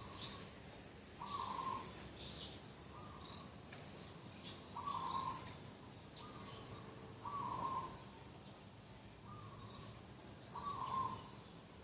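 Dove cooing in a repeated phrase about every three seconds: a short, softer note followed by a longer, louder one. Small birds chirp faintly higher up.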